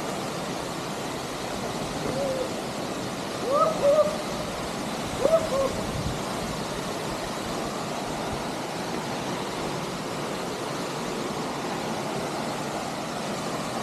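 Steady rush of a waterfall, with a few short hoot-like calls rising and falling in pitch, the loudest about four and five seconds in.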